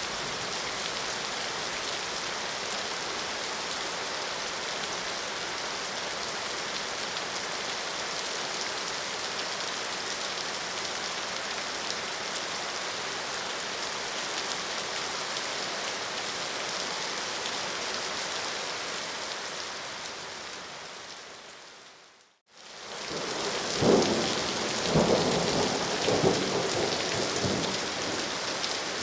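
Steady rain falling, fading out about three quarters of the way through. It comes back as heavier rain with rolling thunder rumbles near the end.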